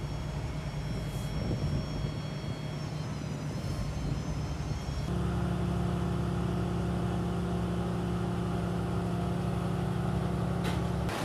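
An engine idling steadily; about five seconds in the sound switches abruptly to a louder, different steady engine hum.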